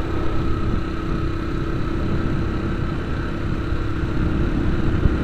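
Vehicle driving along a road: steady engine and road noise, with a constant hum.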